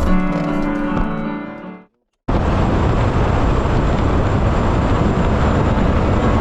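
Background music fades out into a brief silence, then a hard cut to steady, loud wind and road noise, as from a motorcycle riding at speed.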